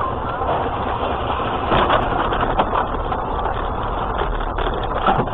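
Vehicle engine and road noise, with a few short louder knocks about two seconds in and again near the end.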